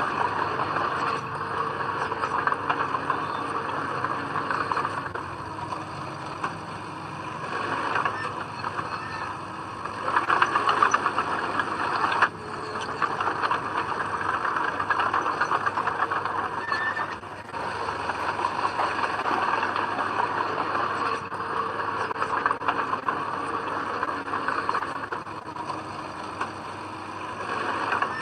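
Komatsu D20P bulldozer working, its diesel engine and steel tracks running with a level that swells and dips, loudest around ten seconds in.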